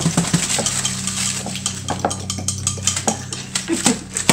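A metal utensil stirring in a glass dish, clinking and knocking against it in quick irregular clicks, over a steady low hum.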